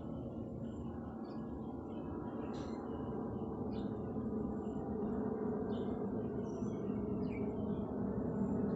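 Short, faint bird chirps scattered over a steady rushing noise that slowly grows louder.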